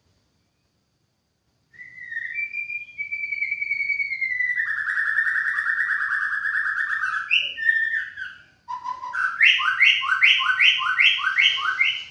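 White-rumped shama singing: whistled notes sliding down, then a long rapid trill, then a loud phrase repeated about six times, two a second, near the end.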